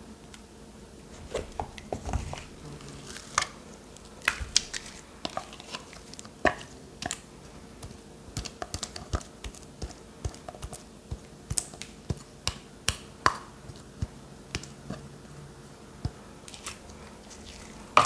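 Hands squishing and stretching slime, making irregular small clicks and pops, a few every second.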